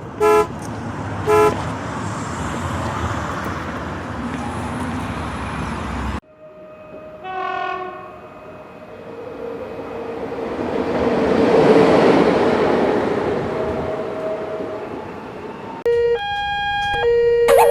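Train running with two short horn toots near the start. After a sudden cut, another horn blast sounds, then a train passes, swelling and fading away. Near the end, steady tones of cartoon sound effects or music come in.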